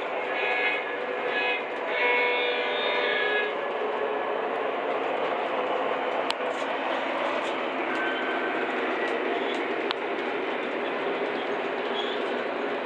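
Lionel model freight train running along its track with a steady rolling rumble and a few sharp clicks. A pitched sound made of several tones sits over the rumble for the first three seconds or so.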